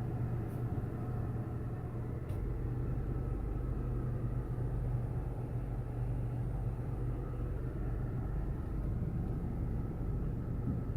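Steady low hum of a car's engine and road noise heard from inside the cabin, with a couple of faint clicks in the first few seconds.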